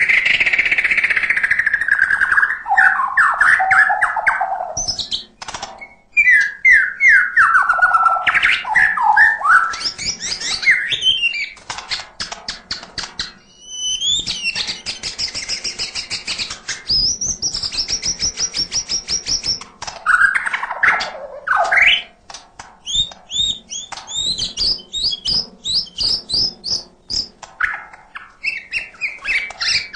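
White-rumped shama (murai batu) singing a loud, varied song packed with mimicked phrases. It moves through sweeping whistles, high trills and fast runs of sharp clicking notes.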